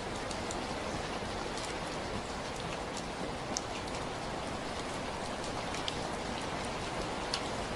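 Steady rain falling, a continuous hiss with scattered sharper drops striking a surface.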